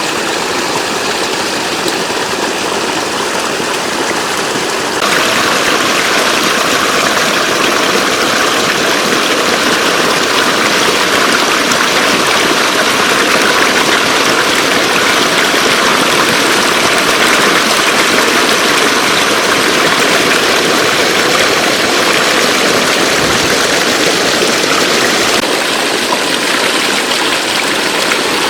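Rushing floodwater flowing steadily, a constant hiss-like rush that becomes louder and brighter abruptly about five seconds in.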